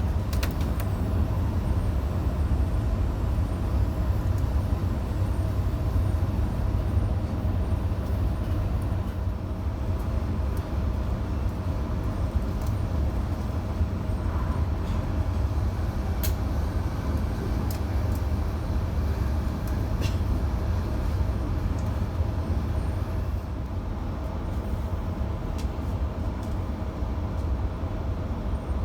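Electric passenger train running at speed between stations, heard from on board: a steady low rumble of wheels on track with a faint steady hum and occasional sharp clicks.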